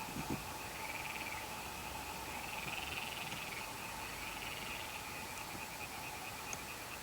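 Frogs calling in a steady night chorus, a dense, finely pulsing high chirring with a fainter steady note beneath it.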